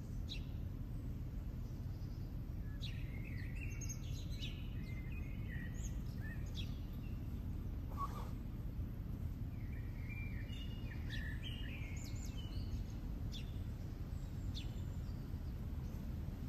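Small songbirds singing in short chirps and trills, in two busier spells, over a steady low rumble of outdoor background noise.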